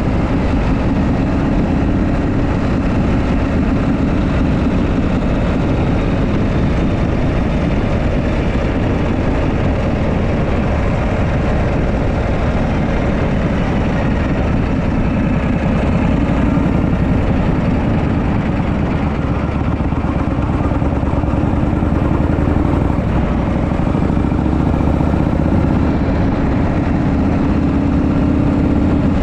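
Harley-Davidson Shovelhead V-twin engine running steadily under way at road speed, its note rising and falling a little with the throttle, mixed with wind rushing over the microphone.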